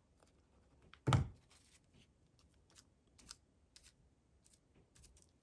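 Light dabs and taps of a glue-loaded sponge on cardstock, scattered small clicks, with one louder knock about a second in.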